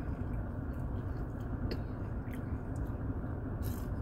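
A person chewing French fries, with a few faint mouth clicks, over a steady low rumble inside a car cabin.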